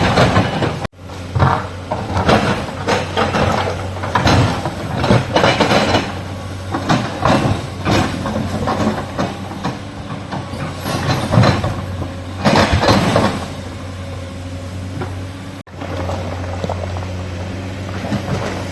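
Excavator's diesel engine running with a steady drone while the bucket scrapes, knocks and clatters against rock and soil in irregular bursts. The sound cuts off abruptly twice, about a second in and near the end.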